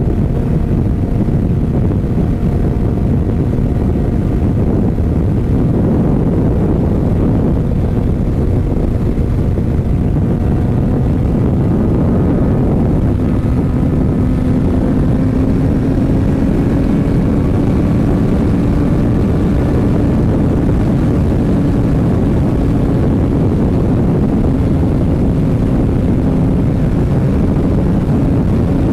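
Suzuki GSX-R750 SRAD sport bike's inline-four engine droning at a steady cruise under heavy wind roar, its note rising slowly over the second half as the bike gathers speed.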